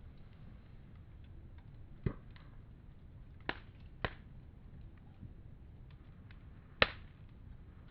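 Wood campfire crackling: faint small ticks over a low steady hiss, with four sharp pops, the loudest near the end.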